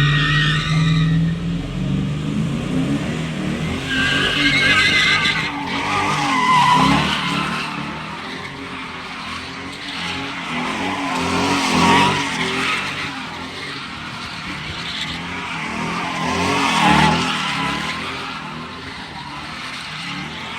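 A car's tyres squealing and skidding while its engine revs hard, as in drifting or a burnout. The squeal swells and fades in waves, loudest about 5, 12 and 17 seconds in.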